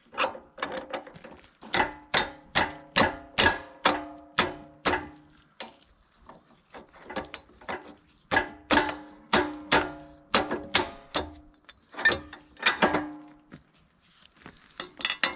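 Ratchet wrench clicking on metal in three runs of quick clicks, each click leaving a short metallic ring.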